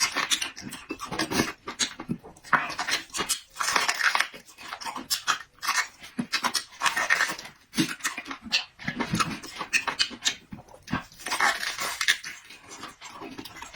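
Close-miked eating sounds: wet chewing, lip smacking and slurping, in irregular clicks and short bursts.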